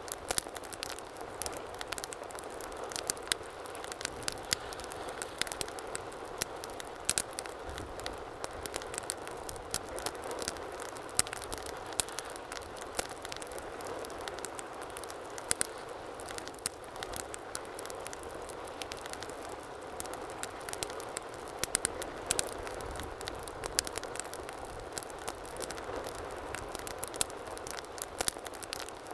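Fire in a fireplace crackling, with frequent irregular sharp pops and snaps over a steady hiss of flames.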